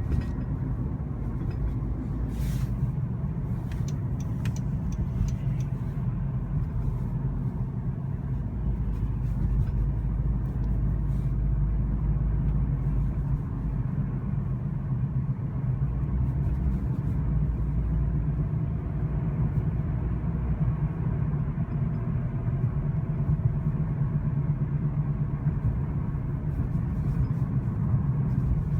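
A 2013 Honda Civic on the move, making a steady low rumble and hum with faint tones above it and a few faint clicks a few seconds in. This is the strange noise that comes when slowing down after the front passenger wheel struck a curb, which the owner suspects may be a damaged wheel bearing.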